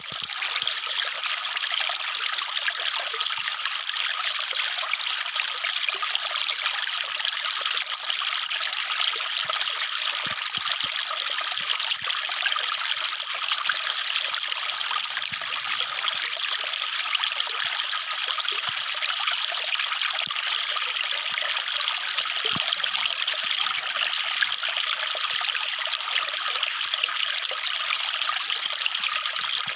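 Water falling steadily, an even, bright rush with no deep rumble and no break throughout.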